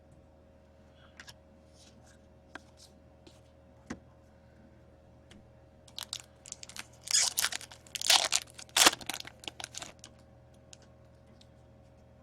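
A foil trading-card pack wrapper being torn open and crinkled. Faint taps of cards being handled come first, then a few seconds of loud tearing and crinkling from about six seconds in, loudest near eight to nine seconds.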